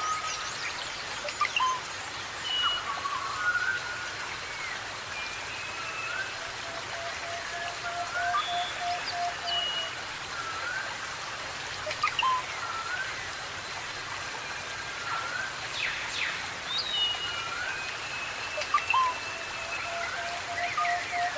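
Several forest birds calling over a steady hiss. There are repeated short rising whistles, higher held whistled notes, and a long low steady whistle twice, about a third of the way in and again near the end.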